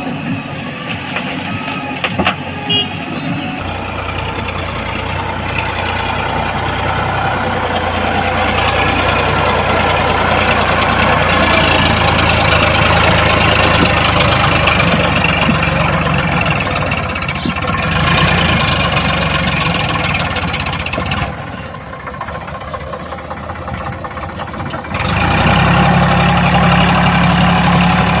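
Diesel engines of a backhoe loader and tractors running under load. The engine note swells and falls, dips for a few seconds, then comes back louder near the end.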